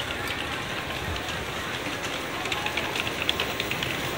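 N700A Shinkansen train rolling along the platform at low speed as it pulls in, a steady rush of running noise with a patter of light clicks in the second half.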